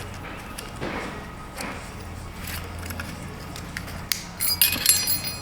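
Hand-fitting a port fuel injector, its O-ring lubed with gasoline, into its bore: light clicks and scrapes, then a louder run of clicks and squeaky rubbing about four seconds in, over a steady low hum.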